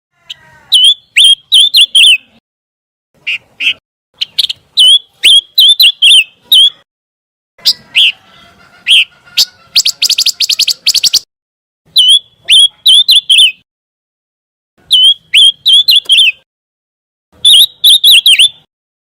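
Song of the bird called pancawarna: phrases of short, sharp high chirps with silent gaps between them, and a fast rattling trill of about nine notes a second around ten seconds in.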